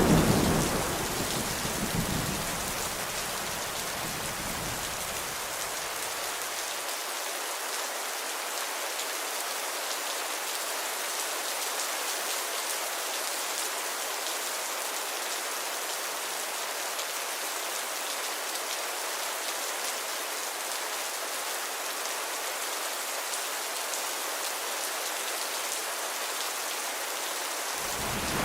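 Steady rain falling on a surface, an even hiss. At the start the low rumble of a thunderclap is dying away, with a short rumble again about two seconds in, before the rain continues alone.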